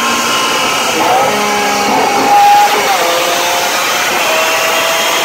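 Lamborghini Aventador LP700-4's V12 engine running at full throttle on a chassis dyno: a loud, high-pitched wail that rises in pitch about a second in and drops about three seconds in.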